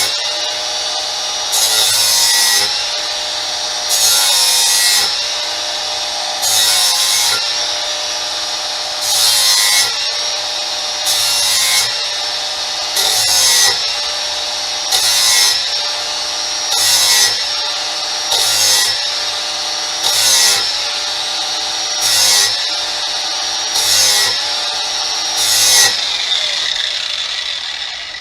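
Electric power tool grinding the edge of a steel lawn mower blade in repeated passes, about one every two seconds. A steady motor whine dips slightly under load, and a harsh grinding hiss comes with each pass. The sound fades near the end.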